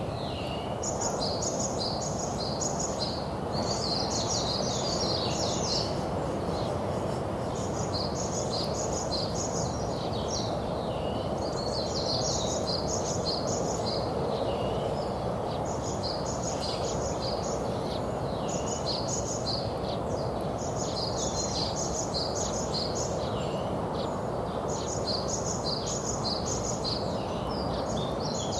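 Small songbirds chirping in repeated quick runs of high notes, with short pauses between runs, over a steady low background rumble.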